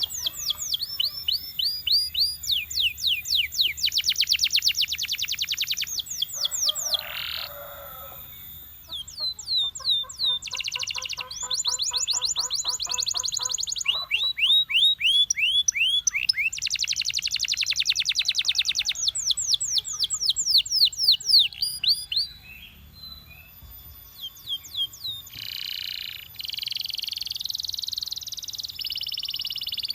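A canary singing a long, varied song made of rapid trills and rolls: fast runs of repeated notes, some sweeping up or down, with a lower rolling phrase partway through and a short lull near the end.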